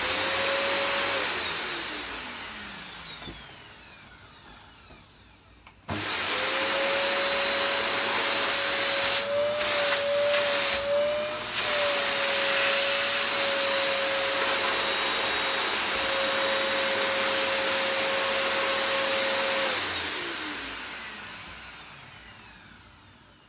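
Hoover Purepower U3450 upright vacuum cleaner's motor switched on for about a second and off again, winding down in a falling whine. It is switched on again about six seconds in and runs steadily, its pitch wavering briefly in the middle with a few clicks, then is switched off near the end and winds down. The motor sounds really, really good, in very good condition.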